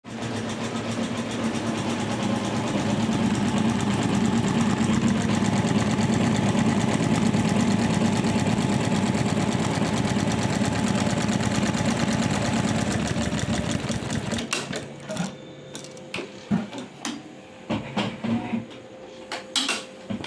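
Computer embroidery machine stitching with a fast, even mechanical rhythm, which stops about three-quarters of the way through. Scattered clicks and knocks follow over a faint steady hum.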